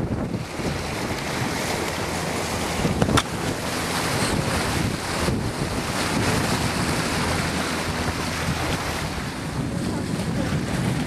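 Wind buffeting the microphone and water rushing past the hull of a sailboat under way, with one sharp knock about three seconds in.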